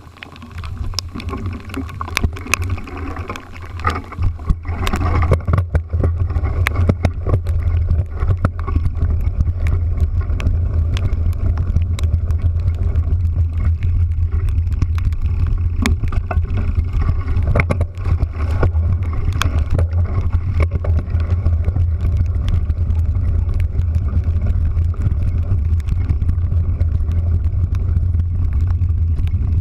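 Steady low rumble of a moving vehicle, building over the first few seconds and then holding, with scattered sharp taps throughout, typical of rain striking near the microphone.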